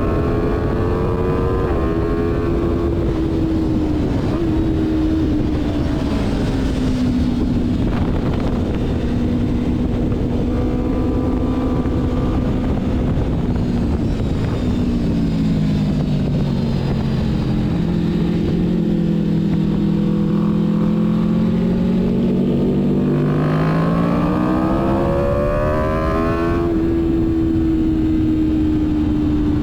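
Sport motorcycle engine at track speed, heard onboard over steady wind rush, its pitch rising and falling as the rider works through the gears. About halfway through the note drops and stays low, then climbs hard about three quarters of the way in as the bike accelerates.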